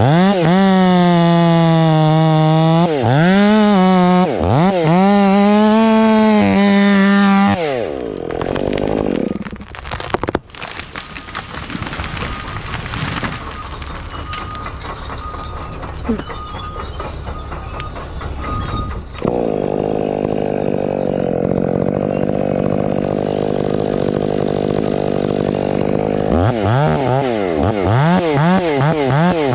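Stihl 500i fuel-injected two-stroke chainsaw held at high revs with two brief dips in the first several seconds. It then drops to a quieter, rougher sound with a few sharp cracks. Near the end it revs up and down repeatedly.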